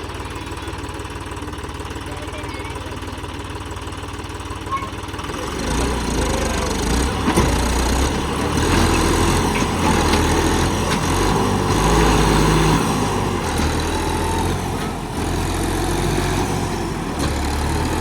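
Tractor diesel engine running with a steady hum, then from about five seconds in growing louder and rougher, with an uneven low rumble.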